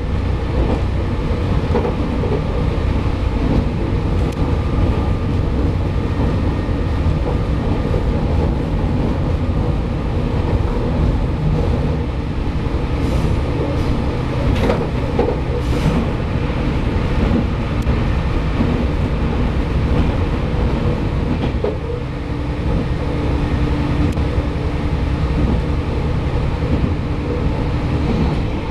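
Kashima Rinkai Railway 6000 series diesel railcar running along the line, heard from on board: a steady, loud engine and wheel-on-rail rumble. A few sharp clicks of the wheels sound in the middle.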